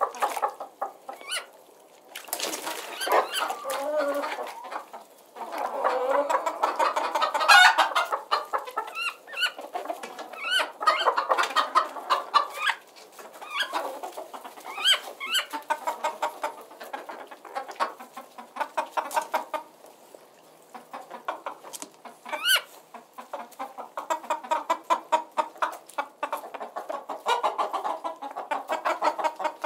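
Domestic hens clucking in a steady run of short, repeated calls, with a few higher rising notes now and then.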